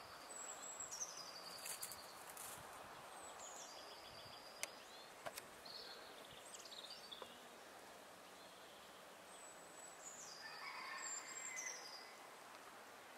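Songbirds singing over a faint steady outdoor hiss. High phrases that drop in pitch come every few seconds, and there are a couple of sharp clicks near the middle.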